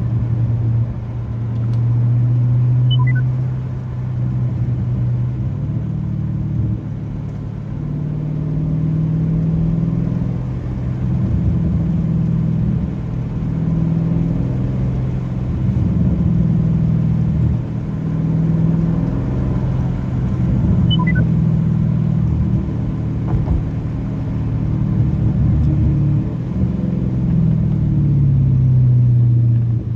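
Straight-piped 392 HEMI V8 of a 2023 Dodge Challenger Scat Pack while driving, its deep exhaust note rising and falling as the car accelerates and eases off, heard through an open window.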